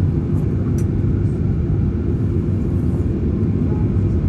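Steady, loud low rumble of an airliner's jet engines and rushing air, heard from inside the passenger cabin.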